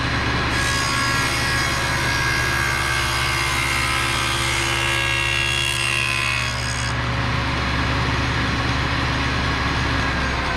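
Table saw running at full speed while a board of man-made sheet material is pushed through the tilted blade for a tenon cut. The blade is in the cut from about half a second in to about seven seconds in, then spins free with just the motor hum. Right at the end the hum drops away as the saw starts to wind down.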